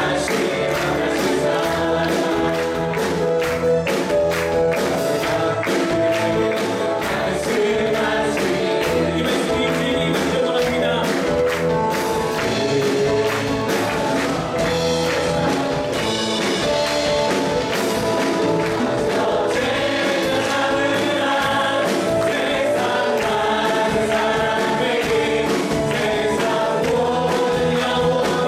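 A group of worshippers singing a Korean praise song together over instrumental accompaniment with a steady beat.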